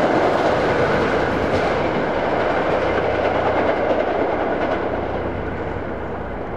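A train rolling past on the track, its noise slowly fading as it moves away.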